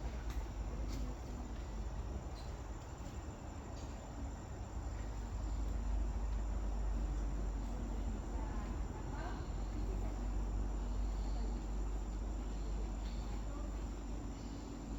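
Insects, crickets by their sound, chirring in a steady high drone, over a low rumble.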